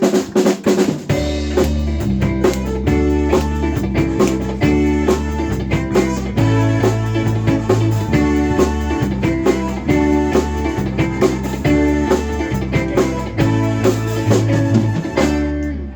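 Live band playing an instrumental groove: a repeating bass riff, drum kit and electric guitar, stopping just before the end.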